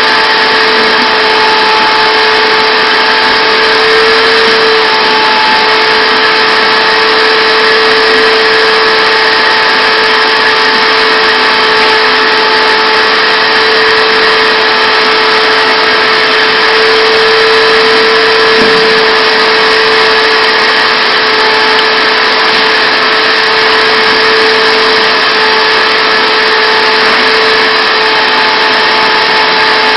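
Shop vac running steadily at full power, pulling air through a homemade cyclone dust separator and tool wand: a loud, even rush of air with a steady whine.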